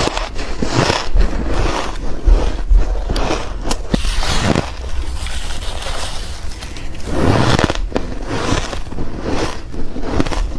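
Ice being bitten close to the microphone: a run of loud, crisp crunches and crackles, one bite after another at irregular intervals.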